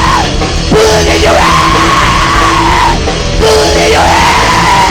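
A loud live rock band playing a heavy, distorted section, with three long yells held over the band.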